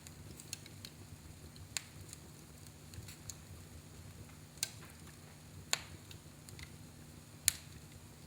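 Wood fire in a fireplace crackling, with irregular sharp pops and snaps over a faint steady low hum. The strongest snaps come about two seconds in, then near the middle, and a loud one near the end.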